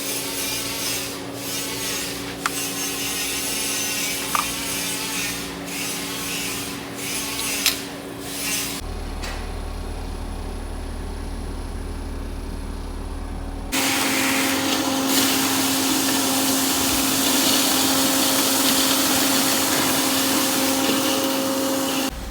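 An electric power tool runs steadily while working aluminum panels, with scraping and a few sharp clicks in the first part. After about nine seconds it gives way to a low steady hum for about five seconds. Then a tool runs again, louder and evenly, and stops abruptly near the end.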